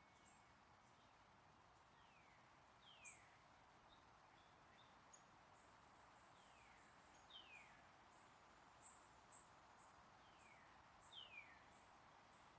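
Faint birdsong: a bird repeating a pair of falling whistled notes about every four seconds, with short high chirps scattered between, over a steady background hiss.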